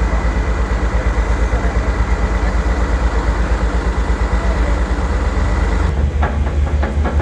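A competition trial truck's heavy diesel engine running with a deep, evenly throbbing beat. The sound shifts abruptly near the end, and some knocks and clatter come in.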